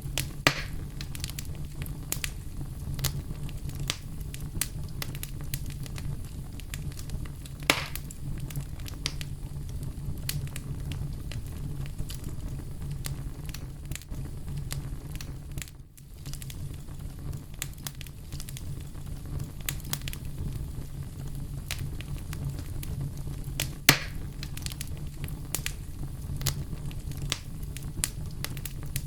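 Wood campfire crackling over a steady low rumble, with frequent small snaps and three louder pops.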